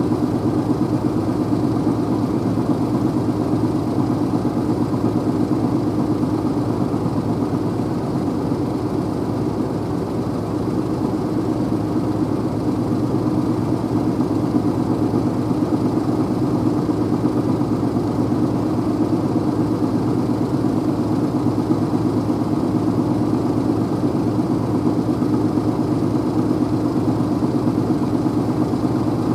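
Vehicle driving at a steady speed: a continuous even drone of engine and road noise with no changes.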